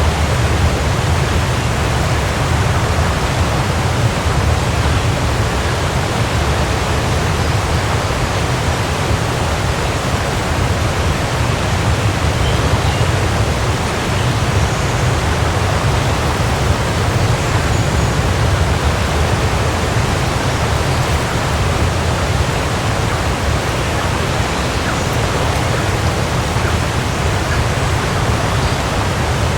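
Waterfall: water falling and splashing in a steady, loud rush with a deep low rumble.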